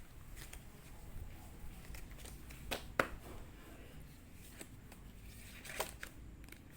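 Tarot cards being handled and laid out: a few scattered soft slaps and swishes of cards, the sharpest about three seconds in and another near six seconds.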